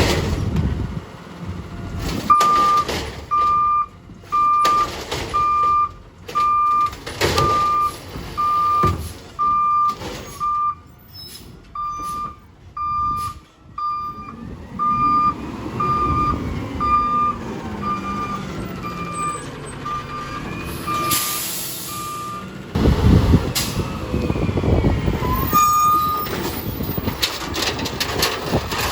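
Garbage truck backing up, its reversing alarm beeping about once a second with a short break midway. Near the end of the beeping an air brake hisses, then a loud rumble from the truck follows and one last beep sounds.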